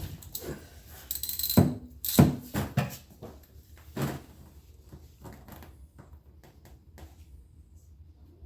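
Clunks and rattles from the right-side pedal linkage of a John Deere 445 lawn tractor being worked by hand. The loudest knocks come about one to three seconds in, another comes at about four seconds, then a few lighter clicks.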